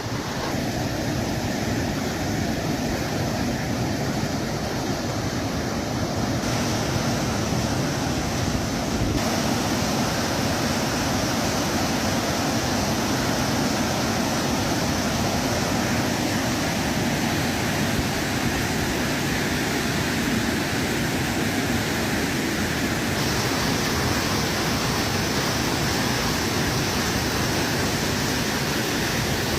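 Steady rushing of water at a reservoir, an even noise without pauses that shifts slightly in tone a few times.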